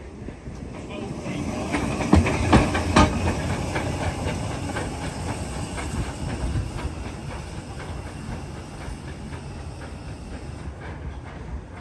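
A heritage railway train running by: a hiss and rumble that builds, with a quick run of sharp wheel clacks over the rail joints about two to three seconds in, then slowly fades.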